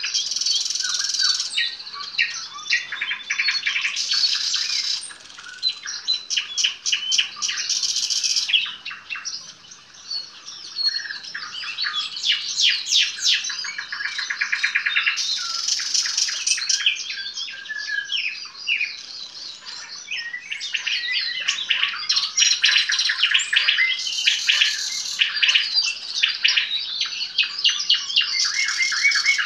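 Nightingale singing: loud, varied phrases of rapid repeated notes and fast trills, separated by short pauses, with a brief lull about ten seconds in.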